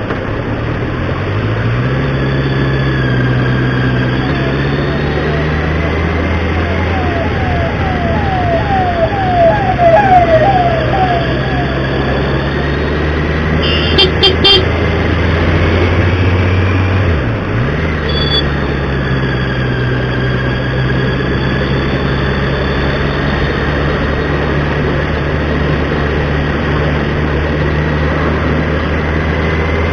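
A motor vehicle engine running steadily, its pitch dipping and climbing again near the start and about two-thirds of the way through. About a third of the way in comes a string of quick repeated chirps, followed by a few sharp clicks.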